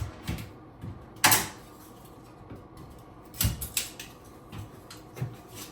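Irregular knocks and clicks from hands working at the vanity cabinet. The loudest is about a second in, and a quick run of clicks comes near the middle.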